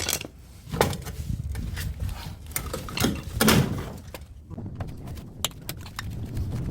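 Clanking and scraping of an air-conditioner outdoor unit's sheet-metal casing as it is manhandled and tipped onto its side. There are several knocks, the loudest about three and a half seconds in, followed by lighter clicks.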